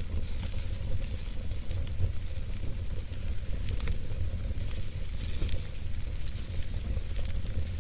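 Wood fire burning in a fireplace: a steady low rumble with a hiss and scattered pops and crackles.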